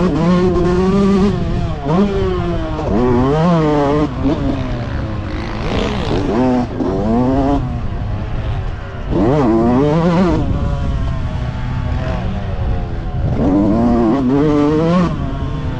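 Motocross motorcycle engines revving hard, their pitch climbing and dropping again and again every second or two.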